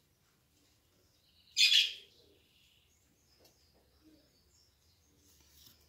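A bird chirps once, short and loud, about a second and a half in, with faint high chirps around it.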